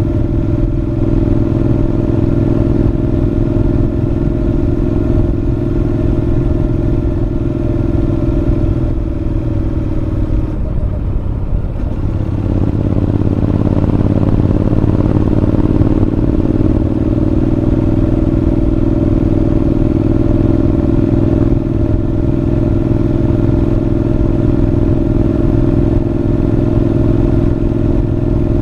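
Honda NC750X parallel-twin engine running through a Moriwaki aftermarket muffler while riding at a steady pace, heard close to how it sounds inside the helmet. About ten seconds in the note breaks up briefly, then settles back to a steady, slightly louder drone.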